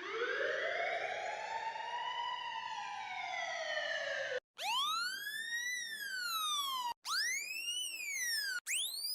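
Police siren wails played one after another, each a single rise-and-fall sweep cut off abruptly: first a slow, lower wail lasting about four seconds, then three shorter ones, each higher-pitched and quicker than the one before.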